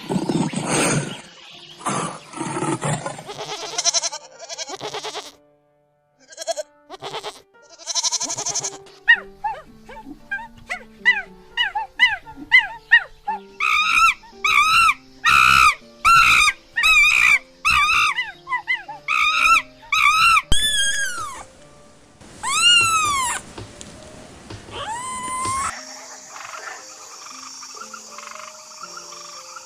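A run of different animal calls one after another. A lion roars in the first few seconds. After a short pause comes a long series of quick, high, repeated chirping calls, then a few drawn-out whistles that rise and fall, and near the end a steady, fainter background chorus.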